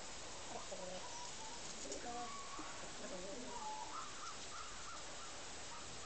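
Faint bird calls over a steady background hiss, with a run of short chirping notes in the second half.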